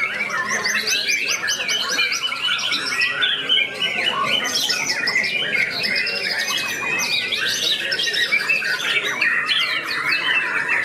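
Many caged white-rumped shamas singing at once in a contest line-up: a dense, unbroken chorus of overlapping whistles, trills and harsh chattering calls.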